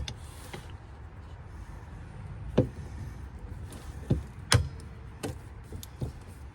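A handful of sharp, irregularly spaced clicks and knocks from the tools and metal of a jammed, crushed pickup-truck door being worked on, over a low steady rumble.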